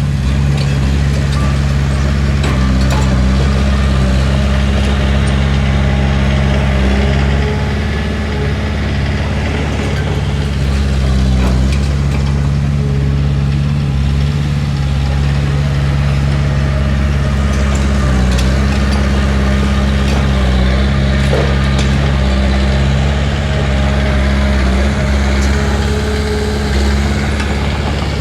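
Heavy earthmoving machine's diesel engine running steadily and loud, its pitch sagging slightly a couple of times as if under load, with faint metallic squeaks and clicks over it.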